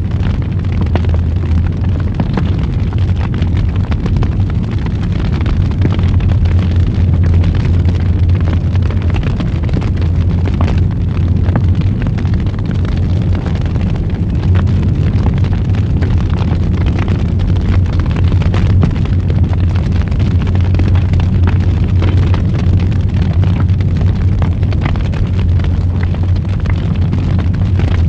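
Wood fire burning in a fireplace: many small crackles and pops over a steady low rumble of flames.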